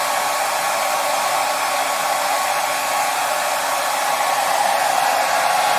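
Hair dryer running steadily: a continuous rush of blown air, getting slightly louder about four seconds in.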